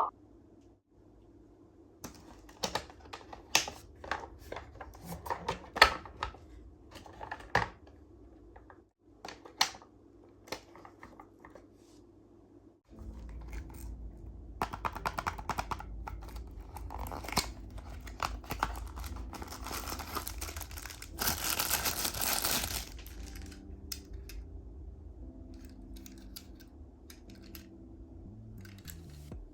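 Toy packaging being opened by hand: scattered light clicks and taps, then longer stretches of crinkling and tearing, loudest about two thirds of the way through.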